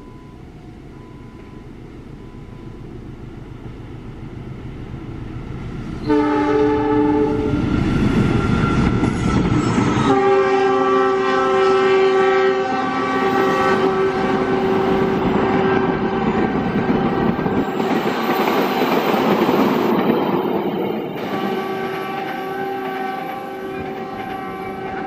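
A passenger train, the Argo Parahyangan express, passes through at speed. Its rumble grows from the start and turns loud about six seconds in, with the clickety-clack of the wheels. The locomotive's multi-tone horn sounds in short blasts, then a long blast from about ten seconds in that breaks off and resumes near the end.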